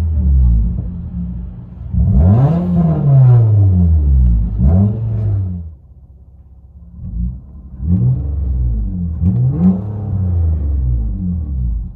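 2016 Nissan Altima 2.5L four-cylinder with its resonator and rear muffler deleted, heard from inside the cabin, revving up and falling back several times. There is a brief drop to a quieter idle about six seconds in, then more revs.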